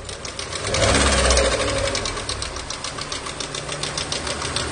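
Car engine running with a fast, even ticking or knocking. Its low rumble swells briefly about a second in. The engine has a loud noise and weak pulling power, which the title puts down to it running on three cylinders.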